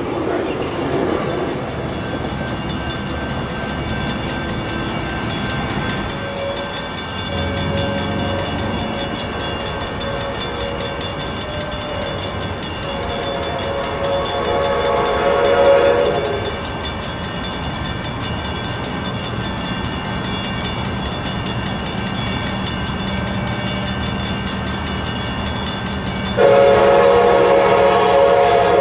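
A passenger train running past on the rails, with its K5LA multi-chime air horn sounding twice: a blast of about two to three seconds around the middle, and another loud blast starting near the end.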